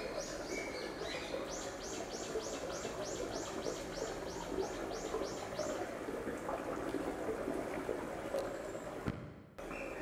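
A songbird calling in a fast series of high, falling notes, about three a second, over the steady rush of a babbling stream. The sound cuts out for about half a second near the end.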